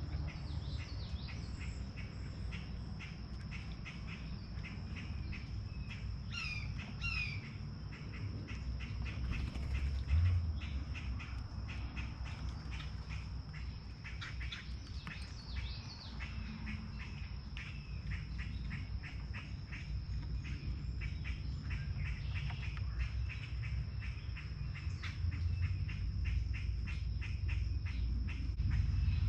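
Wild birds chirping and calling in many quick short notes, over a steady high-pitched whine and a low background rumble.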